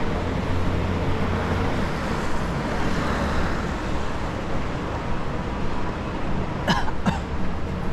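Steady rumble of city vehicle noise, with two quick sharp sounds close together near the end.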